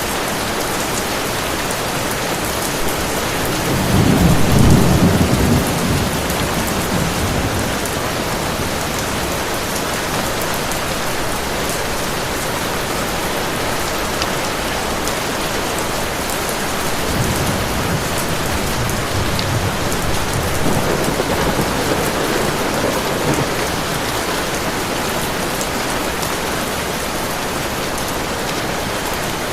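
Heavy rain falling steadily. A rumble of thunder swells about four seconds in, and a fainter, longer roll comes in about halfway through.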